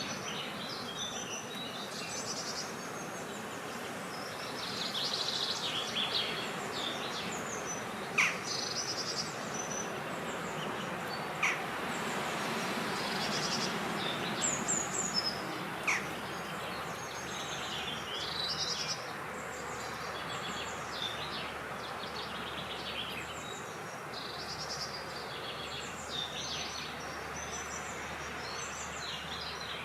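Small birds chirping and singing again and again over a steady rush of wind. Three brief sharp sounds stand out, about eight, eleven and sixteen seconds in.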